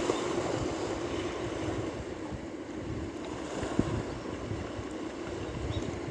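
Ocean waves washing in, loudest at the start as a wave breaks and then easing into a steady wash, with wind buffeting the microphone.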